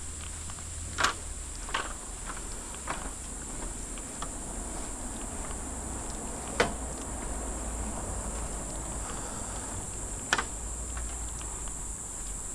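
A steady, high-pitched drone of forest insects, with a few sharp knocks at irregular intervals, the loudest about a second, six and a half seconds and ten seconds in.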